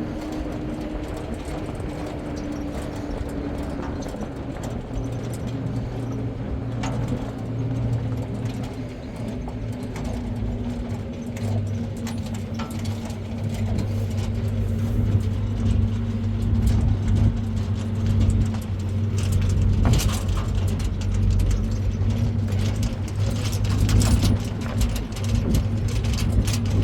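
A motor engine running steadily with a low hum that sinks slightly in pitch, and clicks and rattles that come more often in the second half.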